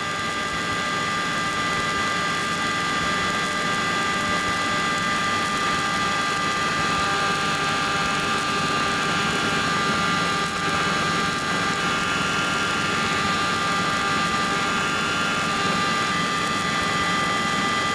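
Helicopter running on the ground, heard from inside the cabin: steady engine and rotor noise with several high, steady whining tones.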